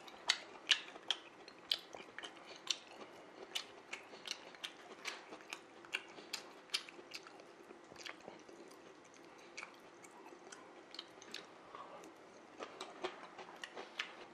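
Close-up chewing of crisp lettuce salad: an irregular run of sharp, wet crunches and mouth clicks, thinning out in the middle and picking up again near the end.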